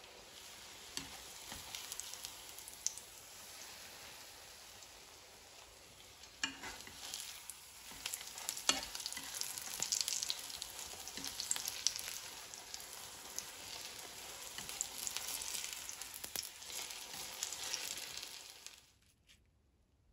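Courgette and carrot fritters shallow-frying in hot oil in a pan: a steady sizzle full of crackles and pops. It grows louder about six seconds in and cuts off suddenly near the end.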